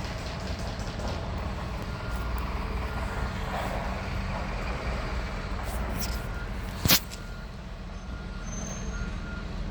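Kia 2.9 CRDi J3 four-cylinder common-rail diesel engine idling steadily, with faint short beeps now and then and one sharp knock about seven seconds in.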